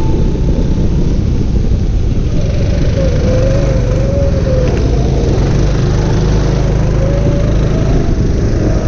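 Kart engine running at speed, its revs dropping in the first couple of seconds, wavering, then rising again near the end, over a heavy low rumble.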